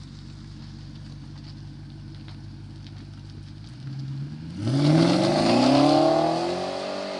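BMW E60 545i's 4.4-litre V8 through a modified exhaust, idling steadily, then revved about four and a half seconds in: the pitch climbs quickly, holds high for a couple of seconds and begins to ease off near the end.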